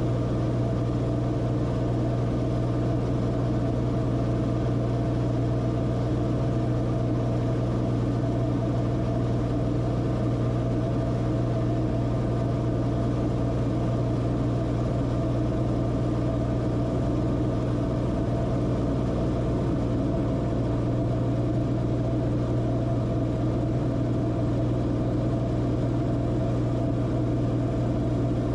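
Steady drone of a Cessna Corvalis TTX's turbocharged six-cylinder engine and propeller, a strong low hum holding one even pitch.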